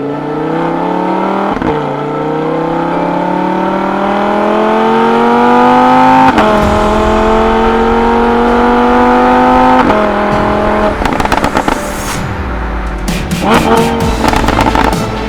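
Lamborghini Huracán LP610-4's V10 engine revving: the pitch climbs for several seconds, steps down twice, holds steady at a raised rev, then falls back. A burst of sharp pops follows near the end.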